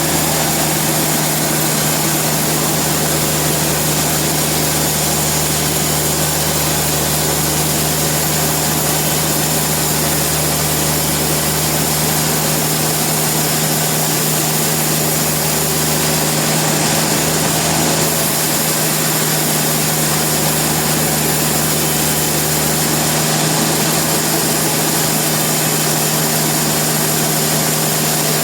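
Sawmill machinery running with a steady, loud mechanical drone and hum, unchanging in level.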